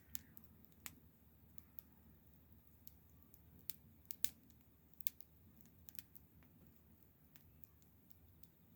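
Wood fire crackling: irregular sharp pops and snaps, the loudest about four seconds in, over a faint low rumble.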